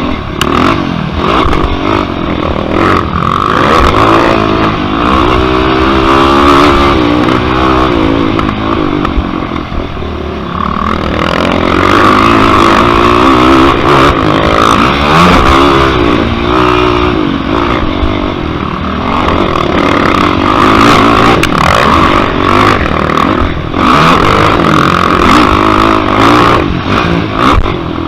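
Yamaha YFZ quad's single-cylinder four-stroke engine racing, its pitch climbing and dropping again and again as it is revved and shifted, with occasional knocks and rattles.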